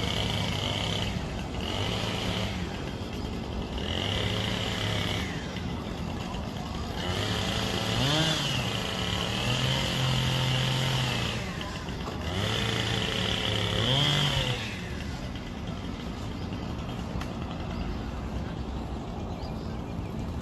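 A motor engine revving in about five bursts, its pitch rising and falling, then settling to a steadier, lower running sound for the last few seconds.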